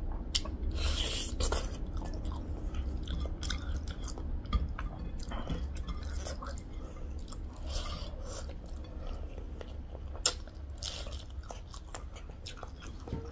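A person chewing and biting a mouthful of pork and rice eaten by hand, heard close up as irregular wet smacks and clicks over a steady low hum.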